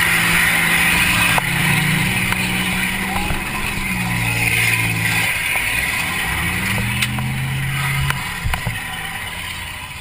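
Demolition derby car's engine heard from inside the cabin, revving and easing off in turn as the car maneuvers, with a couple of sharp knocks.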